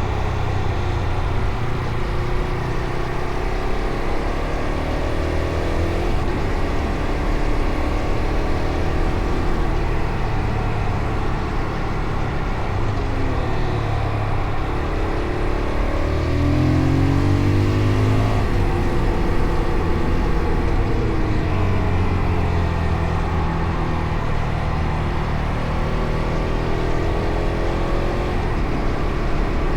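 Fantic Caballero Rally 500 single-cylinder engine ridden on the road. Its pitch rises and falls again and again as it accelerates, shifts gear and backs off. Steady wind and road noise run underneath.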